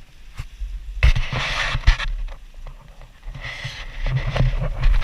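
Water rushing and splashing along a sailboat's hull, surging twice, about a second in and again past the middle, over a steady low rumble of wind on the microphone, with a few sharp knocks.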